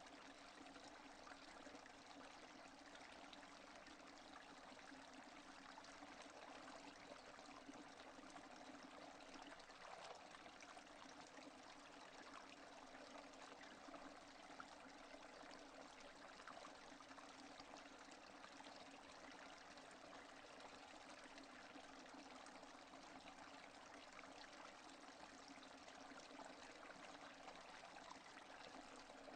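Steady rain without thunder: a quiet, even hiss of falling water speckled with many small drop ticks.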